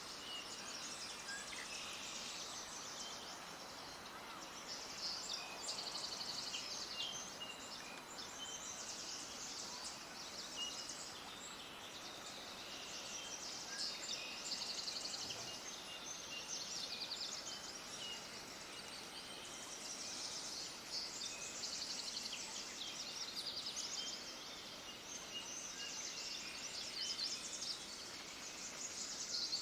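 A dense chorus of small birds chirping: rapid, high twittering that swells and fades every few seconds over a steady background hiss.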